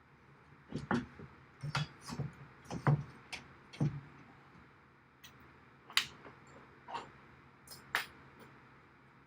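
Irregular clicks and knocks of hardware being handled, a quick cluster of them in the first few seconds and then single knocks about a second apart.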